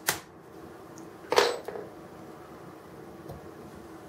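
Small hard taps on a diecast model crane's boom pin, knocking it out: a single tap at the start, then a louder knock with a short clatter about a second and a half in.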